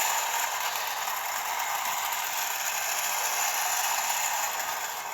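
O gauge clockwork locomotive running at full speed with two coaches: the spring motor's gears whir steadily and the wheels rattle on the tinplate track, fading near the end.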